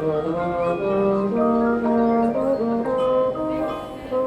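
Marching band brass section playing held chords that move to new notes every half second to a second.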